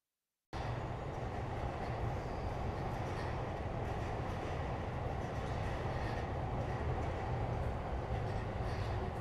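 Train running on the rails: a steady low rumble with faint clicks, starting abruptly about half a second in.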